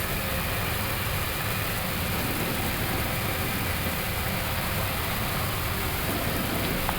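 Steady flight-deck noise of an Airbus A321neo taxiing with its engines at idle: an even hum and hiss that does not change.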